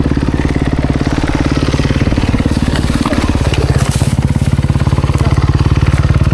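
Kawasaki KX250X dirt bike's single-cylinder engine running steadily at low revs while the bike creeps down a steep, rocky slope, its firing pulses even and unbroken.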